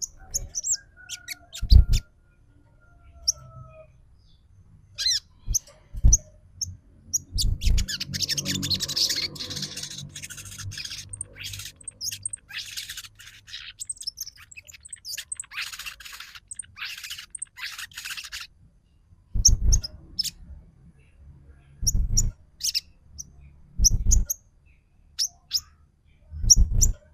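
Sunbird (sogon) lure call: sharp, high chirps, running into a dense burst of chattering through the middle, with several low thumps.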